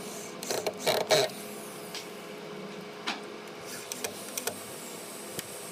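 A quick cluster of knocks and scrapes, the loudest about a second in, then a few single sharp clicks, over a steady background hum.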